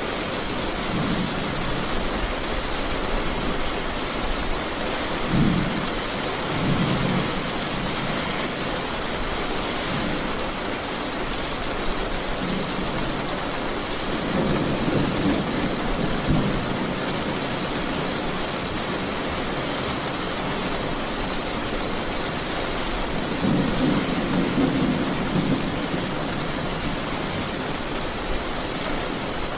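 Steady heavy rain with rolling thunder: low rumbles swell up about five seconds in, again midway, and once more near the end.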